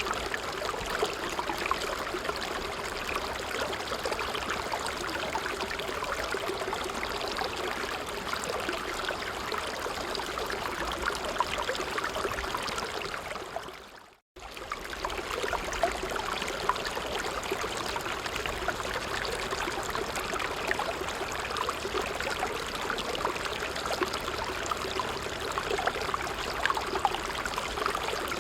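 Stream water running and trickling steadily. About halfway through it fades out to silence for a moment and comes straight back.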